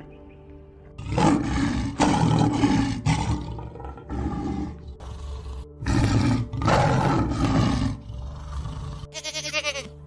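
Deep, rough roaring calls over light background music: Bactrian camels in the first half, then a tiger growling and roaring. A goat gives a short wavering bleat near the end.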